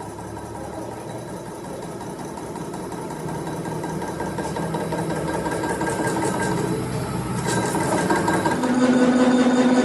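A workshop machine running continuously and growing steadily louder, with a strong steady hum setting in near the end.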